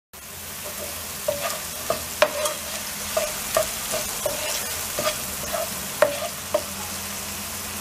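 Diced beef with green peppers and tomatoes sizzling in hot oil in a cast-iron pan as it is stirred with a wooden spoon. A steady frying hiss runs throughout, broken by about a dozen sharp scrapes and knocks of the spoon against the pan.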